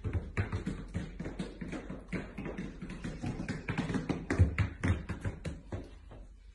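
Rapid, irregular tapping and knocking, several sharp taps a second, the loudest about four and a half seconds in, thinning out near the end.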